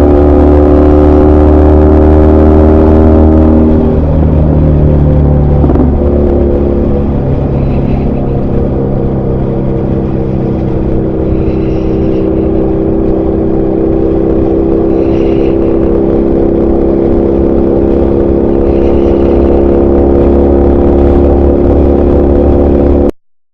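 BMW R1200R motorcycle's boxer-twin engine running under way. Its note changes and dips about four seconds in, then settles into a steady run, and the sound cuts off suddenly near the end.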